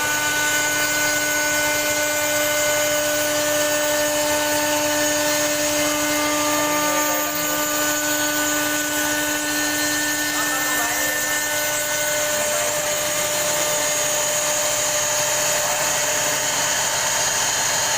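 CNC router spindle running with a steady whine, several tones held over a noisy hiss that shift slightly partway through.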